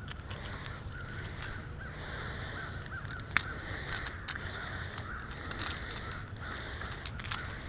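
Birds calling again and again, crow-like caws, over a steady low rumble, with one sharp click about three and a half seconds in.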